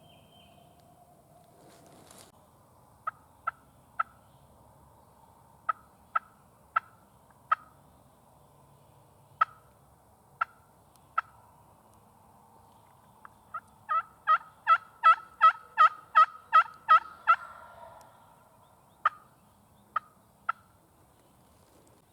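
Turkey clucks: short, sharp single calls spaced a second or so apart, then a quick run of about a dozen yelps at roughly three a second past the middle, then three more clucks near the end.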